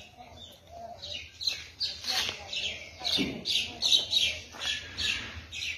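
A bird calling: a fast run of short, falling chirps, about three or four a second, starting about a second in and getting louder.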